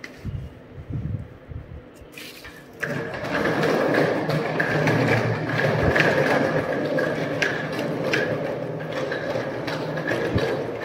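A train running through the station, heard from inside the station building: a rumble that swells up about two seconds in and stays loud, with a steady high tone and scattered clicks over it.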